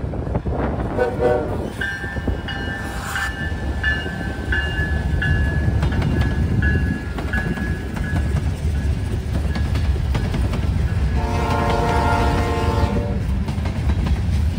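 Norfolk Southern freight train passing with its locomotive rumbling. A bell dings about twice a second for several seconds, then the locomotive's air horn sounds one chord-like blast of about two seconds near the end.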